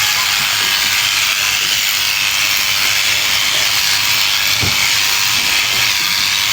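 Sheep shears cutting through a fleece: a steady, loud hiss with one short low thump a little past the middle.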